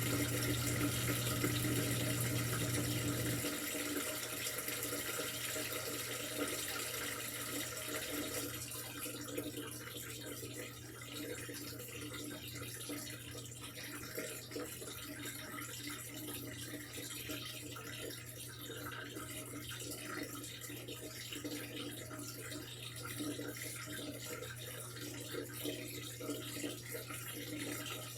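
Washing machine taking in water: a steady rush of water pouring into the drum. A low hum drops away sharply about three and a half seconds in, and the flow settles a little quieter after that.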